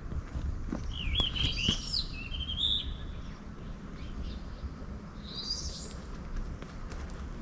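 Small songbirds singing: a quick warbling phrase about a second in, and a shorter call around five and a half seconds, over a low steady background rumble.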